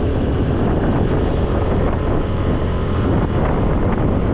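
Wind rushing over the microphone of a scooter rider on the move, with the scooter's engine running underneath as a steady, even noise.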